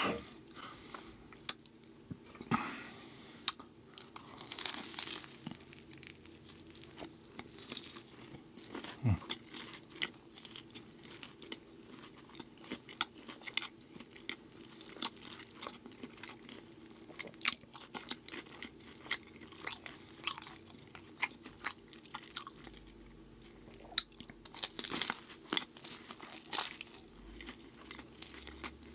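A person eating close to the microphone: repeated chewing with many short crisp crunches and bites, over a faint steady hum.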